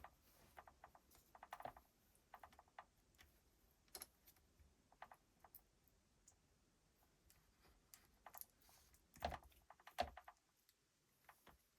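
Faint, irregular clicks and taps of small hard parts being handled, with two louder knocks near the end.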